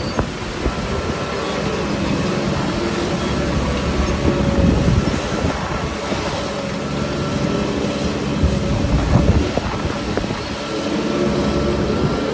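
Shantui crawler bulldozer's diesel engine running steadily under load, with irregular clanks and knocks from its steel tracks and blade working the soil.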